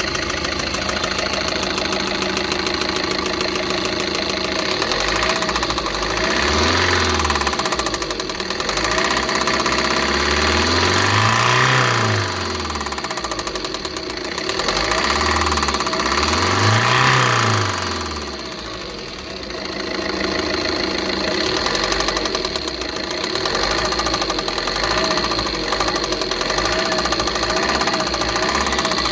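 Tata Intra V30 BS6 pickup's diesel engine running with a knocking sound, revved up and let back down four times, about 7, 12, 15 and 17 seconds in.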